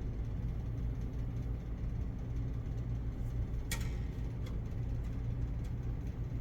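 Steady low hum of a running gaming PC's fans and power supply just after first power-on while it goes through POST, with a sharp click a little under four seconds in.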